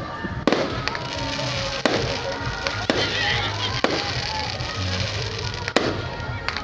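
Fireworks bursting, about seven sharp bangs at irregular intervals roughly a second apart, over loud music with a pulsing bass beat and voices in the background.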